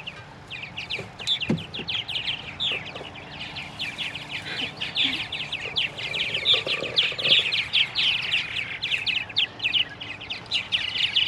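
Purple martins chirping: a dense, continuous stream of short, rapid, high-pitched notes.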